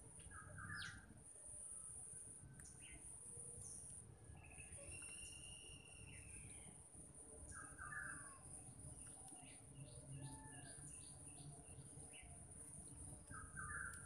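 Faint bird calls: the same short call three times (about a second in, about eight seconds in and near the end), one longer warbling call around five seconds, and a quick run of about seven short high notes around ten seconds. A steady high-pitched hiss lies beneath.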